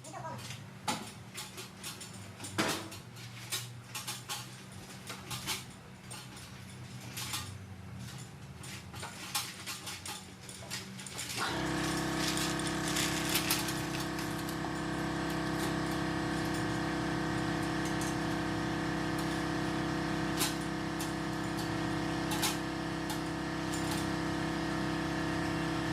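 Scattered metallic clinks and knocks of tools for about ten seconds, then the car's engine starts about halfway through and settles into a steady idle.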